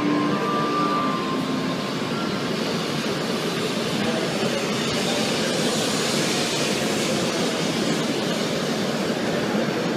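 A Shinkansen train moving along the platform, with a steady rush of rolling and running noise that swells slightly in the middle.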